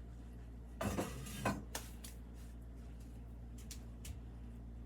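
Glazed ceramic dishes clinking and knocking together as they are handled out of the kiln: a cluster of knocks about a second in, then a few lighter taps near the end.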